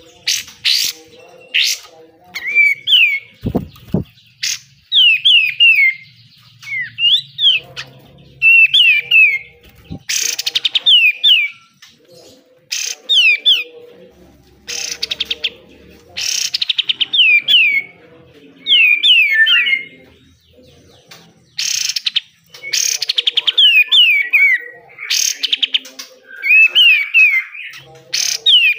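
Olive-winged bulbul (kapas tembak) singing: short phrases every second or two, each a quick run of falling whistled notes, alternating with harsh, rasping bursts of the kind bird keepers call besetan.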